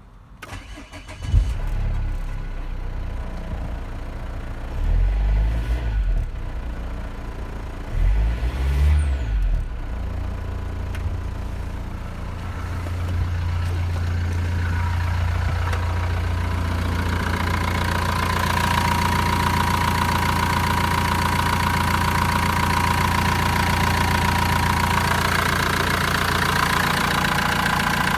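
Renault G9T 2.2 dCi four-cylinder turbodiesel engine cranking and starting about a second in, revved briefly twice, then settling into a steady idle. A steady whine joins the idle partway through.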